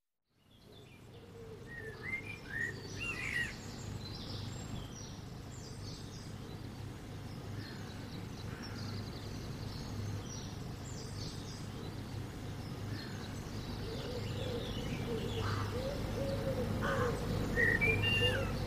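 Birds chirping and singing over a steady low rumble of outdoor background noise. It fades in just after the start, with clusters of quick rising and falling chirps near the start and again near the end.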